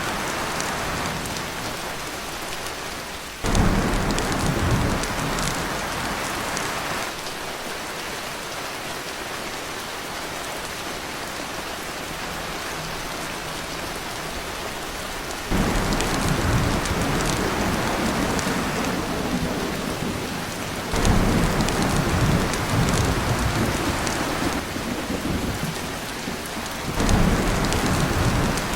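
Heavy rain drumming steadily on a tin roof, with thunder rumbling in four times, each rumble starting suddenly and dying away over a few seconds.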